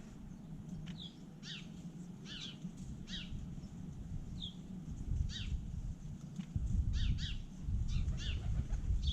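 Bird chirping: short, sharp, falling calls repeated every half second to a second. A low rumble grows louder from about halfway through.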